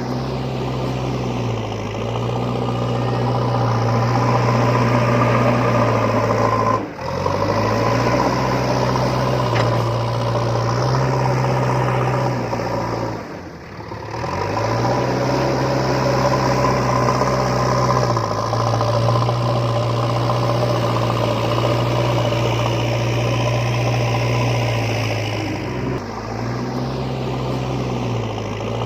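Small motor of a DIY miniature model vehicle running with a steady engine-like hum. Its pitch shifts up and down in steps, and it cuts out briefly twice, about 7 and 13 seconds in.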